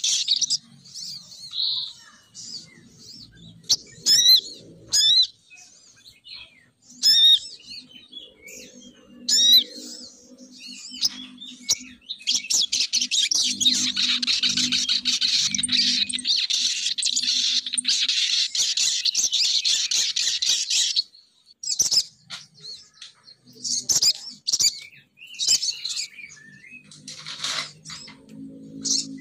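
Lure-call recording of a female sogon bird: quick high chirps and trills, swelling into a dense, continuous chatter for several seconds midway, then back to scattered chirps.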